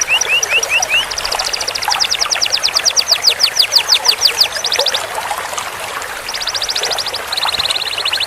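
Domestic canary singing a long roll: fast trills of one short note repeated many times a second, switching to a new note type every second or two, with a short lull about five seconds in.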